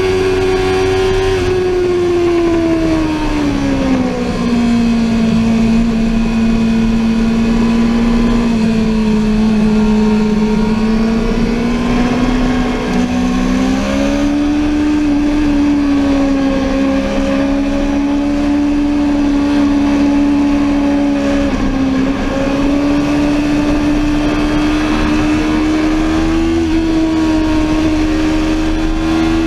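Sportbike engine running on a track lap, heard on board. Its note falls about three seconds in, holds low, then rises around the middle, dips briefly, and climbs again near the end.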